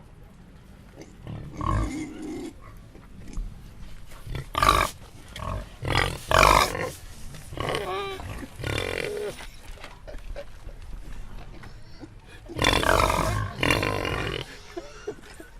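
Domestic pig grunting in irregular short bursts, with a louder run of calls about six seconds in and a longer, harsh call near thirteen seconds.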